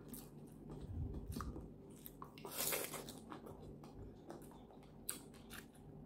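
Close-up chewing and biting of food, with scattered light clicks and a louder noisy stretch about two and a half seconds in.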